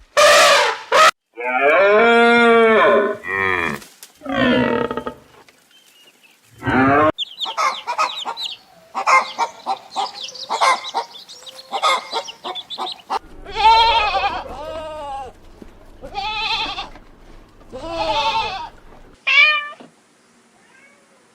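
A run of separate livestock calls, one after another, changing from one animal to the next several times.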